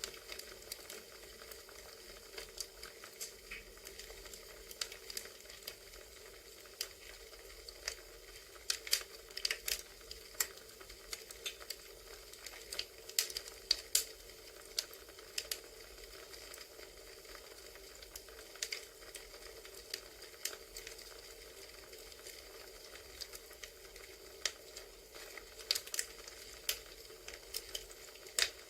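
Crackling wood fire: a steady soft hiss with irregular sharp pops and snaps, busiest in the middle and again near the end.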